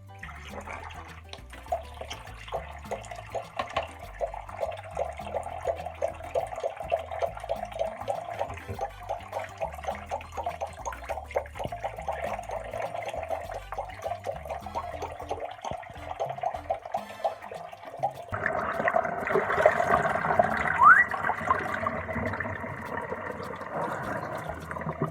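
Tap water running and splashing into a bathroom sink, the stream growing louder about eighteen seconds in. A brief rising whistle is heard near the end.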